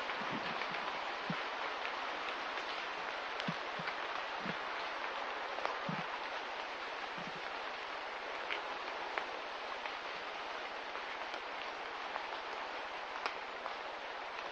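Steady rain ambience: an even hiss with scattered sharp drop ticks, and a few soft low thuds of heavier drops in the first half.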